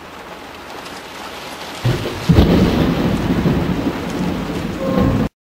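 Steady rain, then a very close lightning strike about two seconds in: a sudden loud crack of thunder followed by a heavy low rumble that cuts off suddenly near the end.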